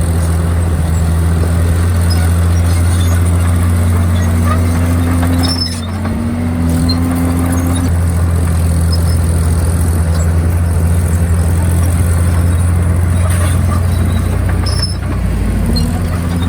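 Komatsu D51PX bulldozer's diesel engine running steadily under work, its pitch wavering slightly about four to eight seconds in, with brief dips in loudness about six seconds in and near the end.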